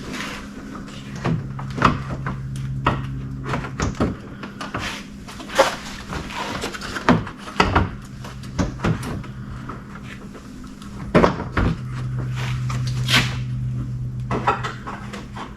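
Irregular clicks, knocks and rattles of plastic automotive headlight-assembly parts being handled and fitted, over a steady low hum.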